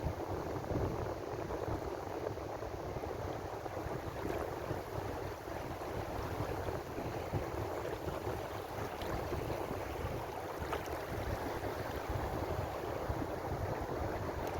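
Ocean waves washing on the shore: a steady rush of surf without distinct breaks.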